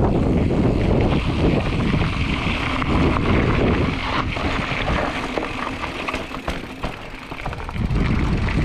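Wind rushing over the microphone of a mountain bike rider on the move, with the bike rattling and knocking over a rough dirt trail. It eases off for a moment about six seconds in, then builds again.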